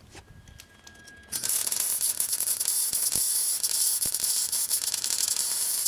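Welding arc sizzling and crackling steadily for about five seconds, starting about a second in, as the mower's exhaust is welded in place.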